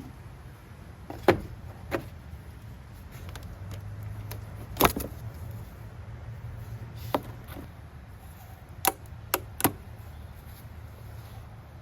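Scattered sharp clicks and knocks of tools and parts being handled while working on a car, about seven in all, the loudest about five seconds in, over a steady low hum.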